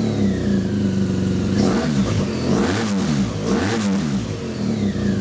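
BMW R1200GS Adventure boxer-twin engine running through an Akrapovic titanium silencer with its dB-killer baffles removed, a deeper sound. The engine idles steadily and is revved up and back down about three times in the middle.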